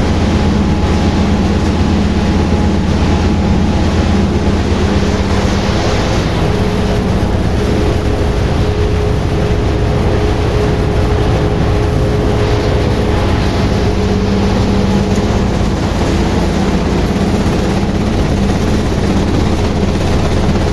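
Automatic raisin colour-sorting machine running: a loud, steady mechanical hum with a constant low drone and a dense rushing, rattling noise over it.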